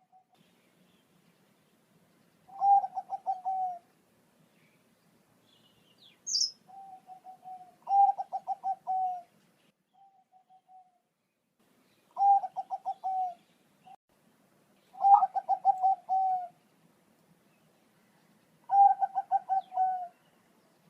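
Zebra dove (Bangkok-type perkutut) cooing: six phrases of rapid, staccato coos, each about a second long and a few seconds apart. A short high chirp sounds about six seconds in.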